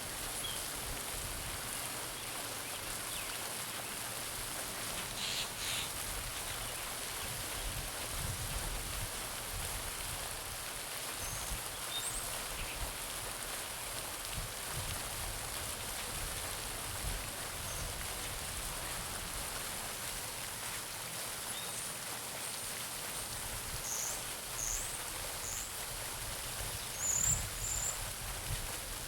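Garden pond fountain splashing steadily into the water, with a few short bird chirps, briefly about five seconds in and again near the end.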